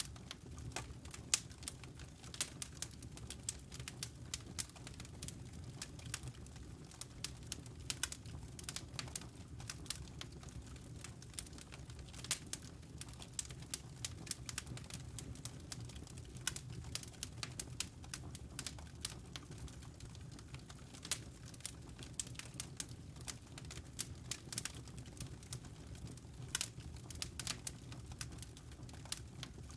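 Wood fire crackling and popping in a fireplace: irregular sharp snaps over a steady low rumble.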